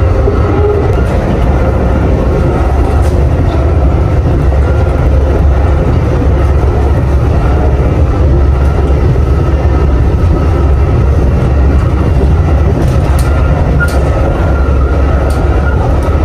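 Amtrak passenger train running, a steady loud rumble heard from inside the rail car.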